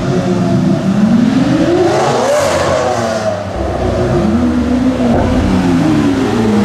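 V12 supercar engine revving, rising and falling in pitch three times, with the highest and loudest climb about two and a half seconds in.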